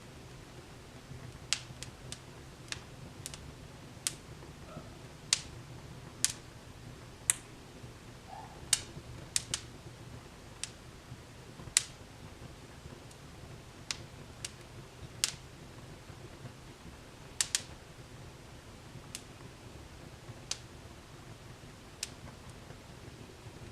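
Wood fire burning in a fireplace, crackling and popping: sharp snaps come at uneven intervals, a few close together, over a steady low hum.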